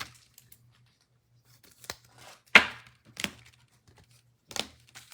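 Trading cards and foil pack wrappers being handled: a handful of short, sharp card snaps and rustles, the loudest about two and a half seconds in.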